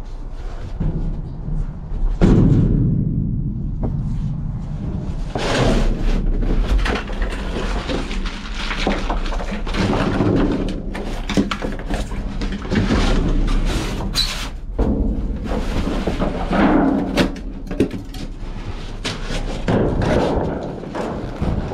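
Rummaging: a run of thunks, knocks and clatter, with rustling and scraping between them and a heavy thud about two seconds in.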